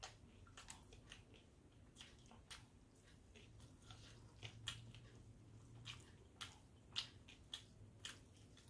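Faint chewing, with scattered wet mouth clicks and smacks at an irregular pace.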